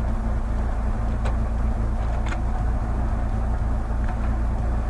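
Chevrolet Niva's four-cylinder engine running steadily, with two short clicks a second apart.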